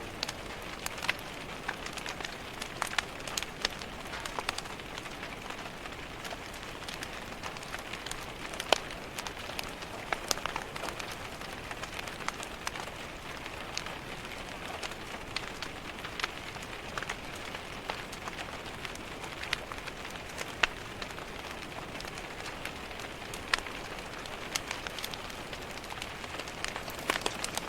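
Steady rain pattering on a window, with a wood fire crackling and popping in sharp, irregular clicks throughout.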